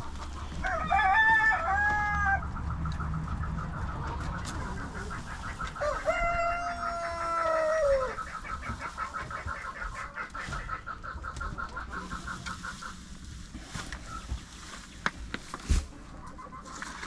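Rooster crowing twice: a short crow about a second in and a longer one around six seconds in that drops in pitch at its end. A fast, even run of short repeated clucking calls carries on under and between the crows, stopping about thirteen seconds in.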